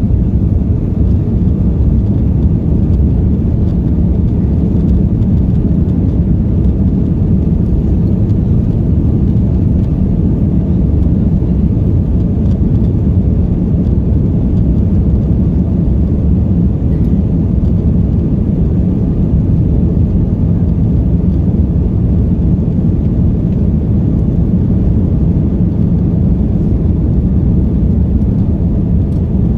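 Steady low rumble inside the cabin of an Airbus A330-343, from its Rolls-Royce Trent 700 jet engines and the airflow around the fuselage, around the time of takeoff. It holds an even level throughout.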